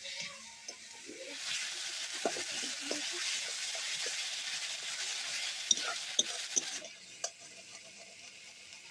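Ginger, garlic and onion frying in hot oil in a pan while being stirred. A loud sizzle starts about a second and a half in and drops away shortly before the end, with a few sharp clicks of the utensil against the pan.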